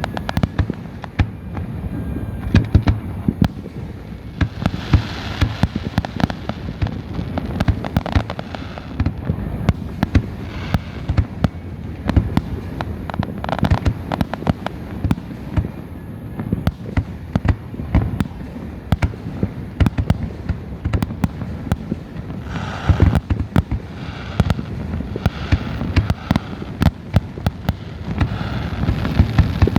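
Fireworks going off in a dense, irregular series of many bangs and crackles, with a few louder bursts clustered about a third of the way in and again near the end.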